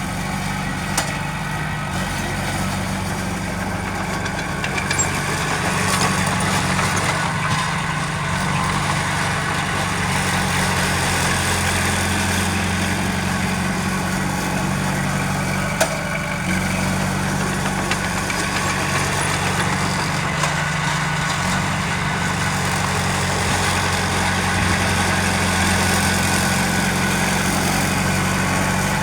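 Heavy diesel engine of earthmoving machinery running steadily, with a few sharp clicks or clanks.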